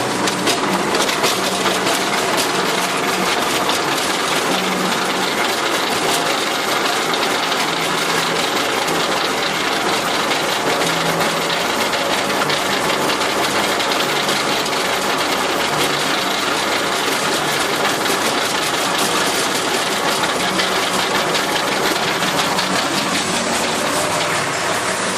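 Massey Ferguson 275 tractor's diesel engine running steadily with a dense clatter.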